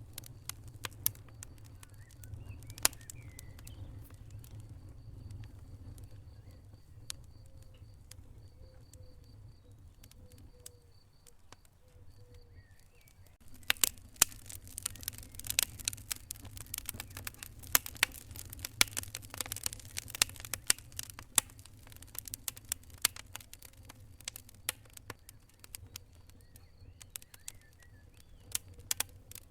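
Burning logs in a fireplace crackling and popping with sharp, irregular snaps over a low steady rumble of the flames. The crackling grows much denser and louder about halfway through, then thins out again.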